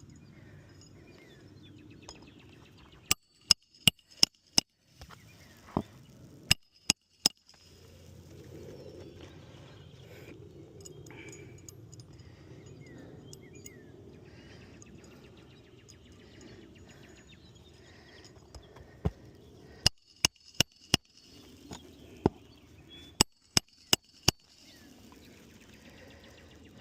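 Hammer blows on a shingle roof in quick runs of three to five sharp strikes, about three a second, four runs in all, as of nails being driven during a shingle repair. Birds chirp faintly between the runs.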